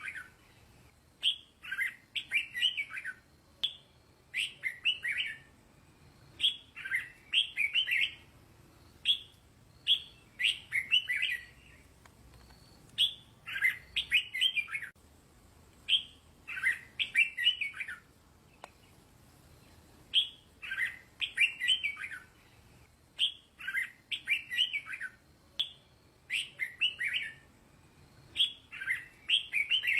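Red-whiskered bulbul singing: short phrases of several quick notes, repeated every one and a half to two seconds with brief pauses between them.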